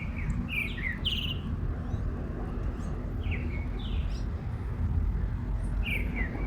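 Birds chirping in short clusters of quick calls, over a steady low rumble.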